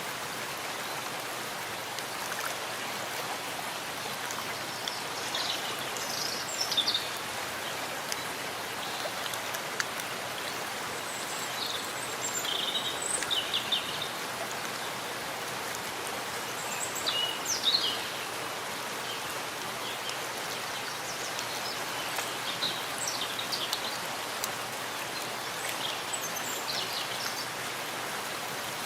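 Steady rain falling in a forest, an even hiss of drops. Small birds chirp in short bursts several times over it.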